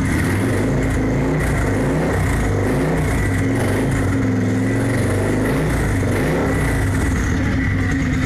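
Motorcycle engine running, its pitch rising and falling a little as the revs change.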